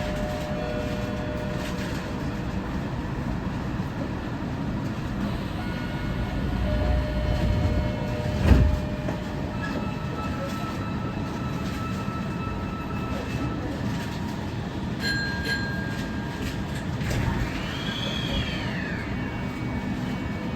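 Kita-Osaka Kyuko 9000 series electric train pulling out of a station and running, a steady rumble with several steady motor tones. A single thump comes about eight and a half seconds in, and a high tone rises and falls near the end.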